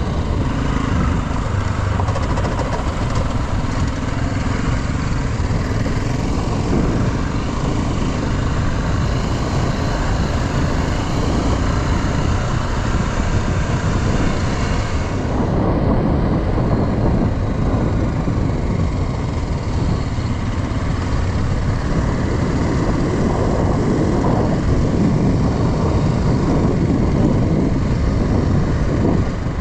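A motorcycle being ridden on the road: the engine runs under a steady rush of wind on the microphone. The hiss thins out about halfway through.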